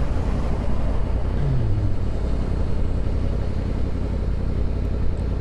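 Yamaha R1 sport bike under way, its inline-four engine running under a steady low rumble of wind and road noise, with a short falling tone about a second and a half in.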